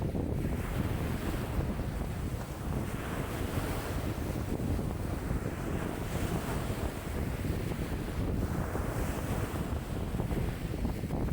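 Wind-driven lake waves washing in, a swell of rushing water every two to three seconds, over a steady low rumble of strong wind buffeting the microphone.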